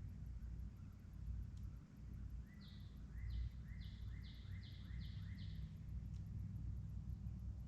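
A songbird singing one phrase of about seven quick, evenly repeated notes lasting about three seconds. It starts a little over two seconds in, over a steady low outdoor rumble.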